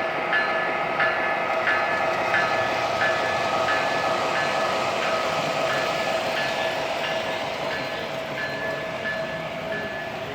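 Model train running on a layout, with a steady whine and a bell dinging about one and a half times a second.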